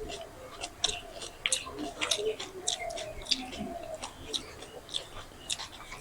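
Close-up chewing and mouth sounds of people eating, with many quick, irregular crisp clicks and crunches.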